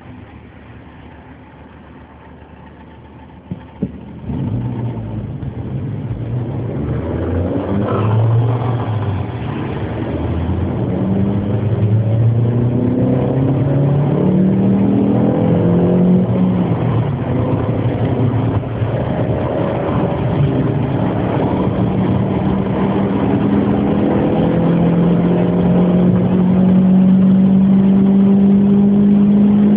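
Formula racing car engine: quiet at first, a sharp knock about four seconds in, then the engine gets steadily louder, its pitch rising and falling in steps as it revs, and it holds a steadier, louder note near the end.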